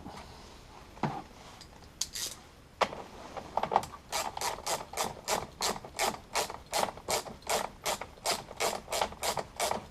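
Ratchet wrench clicking as it is swung back and forth on a 10 mm nut. A few scattered clicks come first, then a steady run of about three clicks a second from a few seconds in.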